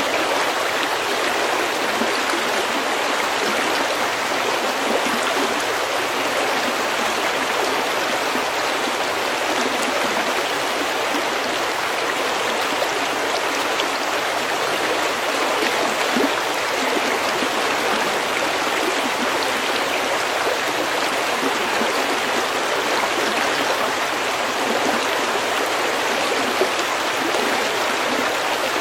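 Stream water running over pebbles: a steady, even rush and babble.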